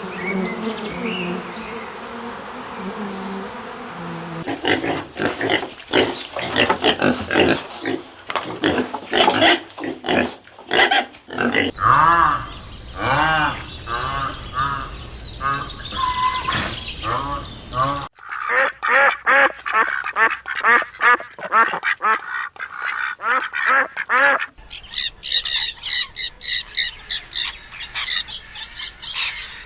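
Domestic fowl calling over and over: short, repeated honking or quacking calls in several stretches that cut off suddenly, the last stretch higher-pitched.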